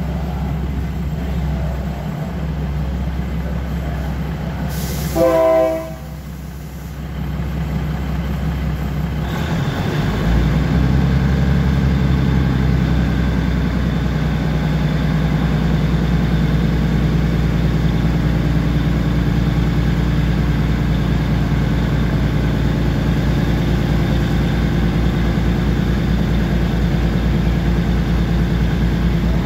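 Diesel train idling, then its horn sounds one blast of about a second; around ten seconds in the engine note rises and runs on steadily, as the train gets under way.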